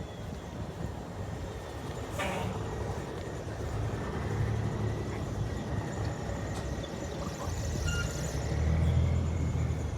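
Heavy trucks' diesel engines rumbling as they drive past, swelling about halfway through and again near the end, with a brief hiss about two seconds in.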